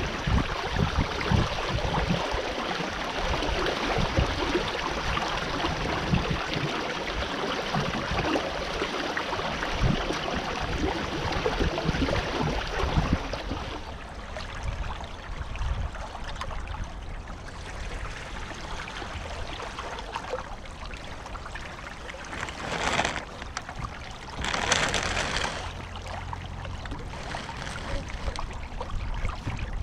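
Water trickling and gurgling along a sailing canoe's hull as it moves through the water, with wind rumbling on the microphone. The water noise is louder for the first half, drops off about 14 seconds in, and swells briefly twice near the end.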